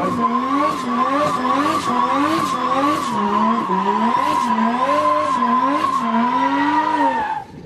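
Drift car sliding, its tyres squealing in one steady high tone while the engine revs rise and fall about twice a second. The sound cuts off suddenly near the end.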